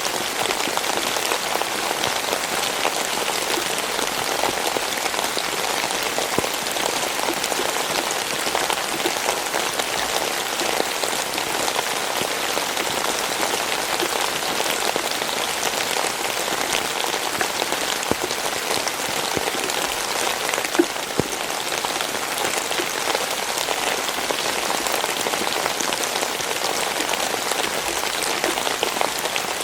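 Steady rainfall, with many close drops pattering on a surface and a few louder single drops.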